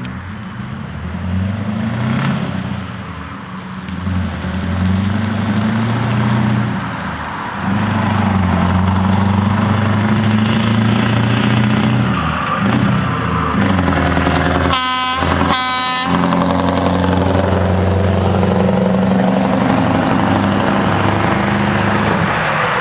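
Scania 164 480 truck's V8 diesel running, its pitch dipping and rising with the revs several times in the first half, then steady. About 15 seconds in, an air horn sounds two short blasts.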